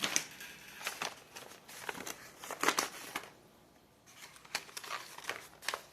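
Handling of a small plastic bag of clips: crinkling plastic and scattered light clicks, with a brief lull in the middle.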